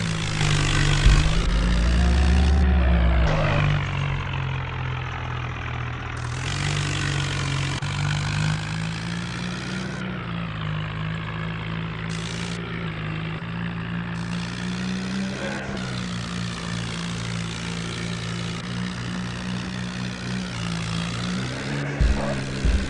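Tractor engine running steadily, its pitch shifting up and down a little, with a loud low rumble in the first few seconds.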